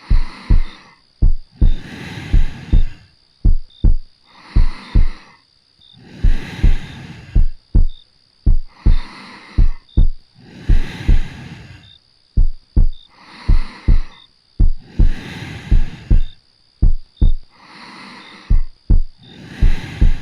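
Heartbeat heard close up: a steady lub-dub of low double thumps, about once a second. Slow, soft breaths swell and fade between the beats.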